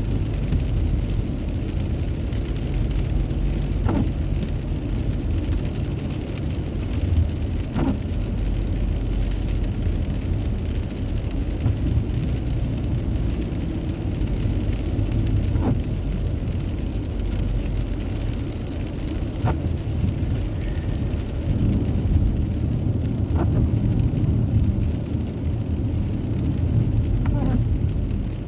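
Car cabin noise while driving in the rain: a steady low road and engine rumble with rain on the car, and a short faint swish from the windscreen wipers about every four seconds.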